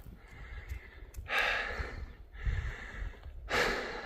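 A person breathing hard: three heavy, noisy breaths, each about a second long, starting about a second in. The hiker is out of breath from climbing in snow at high altitude.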